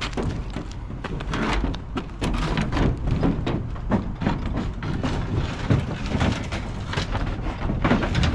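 Irregular knocks, bumps and scrapes of a ROTH oil tank being handled and carried into place, over a low rumble.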